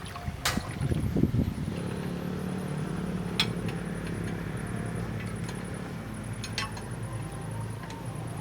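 Backhoe loader's diesel engine running, holding a steady, even note from about two seconds in, with a few sharp metallic clinks.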